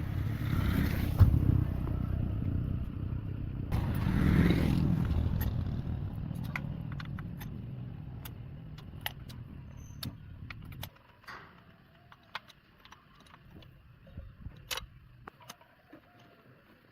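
A motor vehicle's engine running, swelling about four seconds in, then fading and cutting off abruptly near eleven seconds; faint scattered clicks follow.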